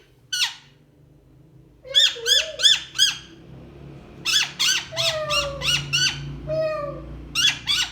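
Pet parrot screeching: runs of loud, shrill squawks, several in quick succession, with short pauses between the runs.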